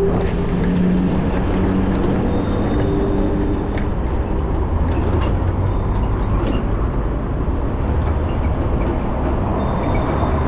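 Road traffic heard from a moving bicycle: a heavy truck's engine hums close by over a steady low rumble of traffic and wind.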